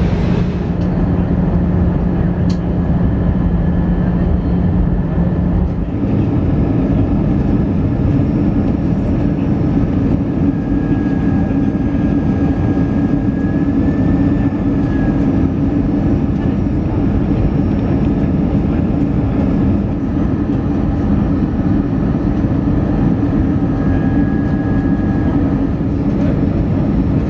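Airbus A320 cabin noise in flight during the approach: a steady rush of airflow and engine noise with a low hum that steps up in pitch about six seconds in.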